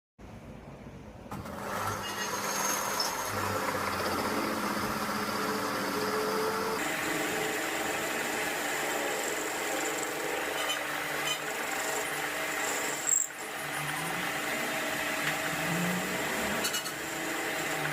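Metal lathe running and cutting metal: a steady mechanical hum with held tones that grows louder about a second in, shifts about seven seconds in, and has one short louder moment near the thirteenth second.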